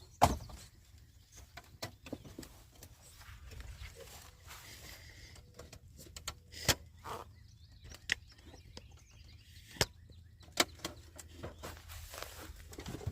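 Wooden beehive frames and boxes being handled: scattered light knocks and clicks at irregular intervals over a faint low hum.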